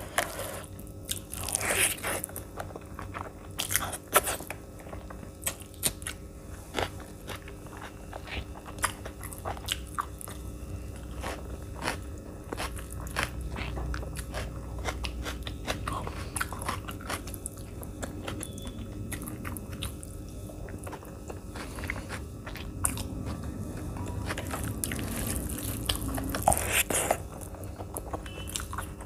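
Close-up eating sounds of a person chewing mouthfuls of veg biryani with shahi paneer gravy: wet chewing and biting with many sharp mouth clicks and smacks.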